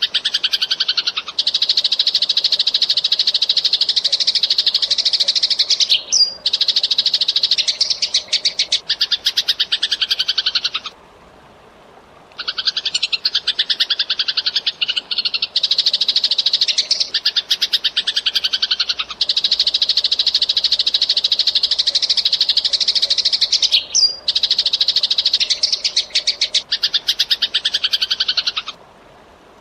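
Eurasian tree sparrows chattering: dense, very rapid chirps run together in long spells, broken off for about a second near the middle and again just before the end.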